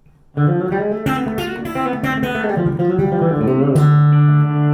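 Guitar playing a fast chicken pickin' lick in D: a quick run of plucked single notes with hammer-ons, pull-offs and slides. It ends about three and a half seconds in on a low note that is left ringing.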